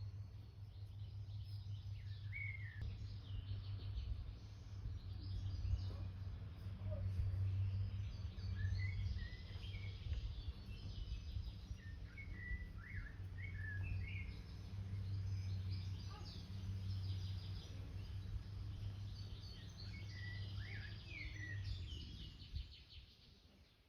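Small birds chirping and twittering in short, scattered calls over a steady low rumble, which fades away near the end.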